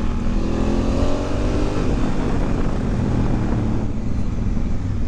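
Motorcycle engine running on the move. Its note rises over the first two seconds as it accelerates, then holds steady over a dense rush of wind and road noise.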